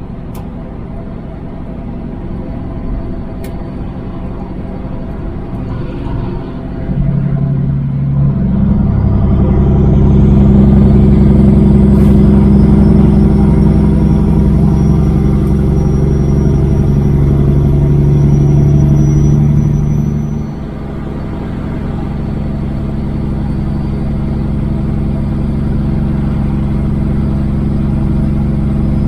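Semi truck's Caterpillar diesel engine pulling a fully loaded trailer of about 80,000 pounds. The engine gets louder about seven seconds in, runs hard for about twelve seconds, then drops back suddenly and runs on steadily.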